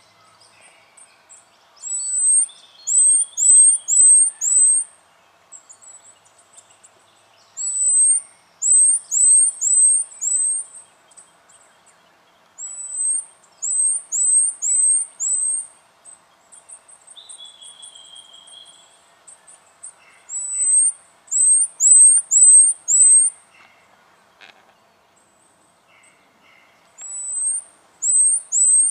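Spotted quail-thrush singing: quick phrases of four to six very high, thin, rising whistles, a phrase every five to seven seconds. A lower, drawn-out falling whistle comes twice between the phrases.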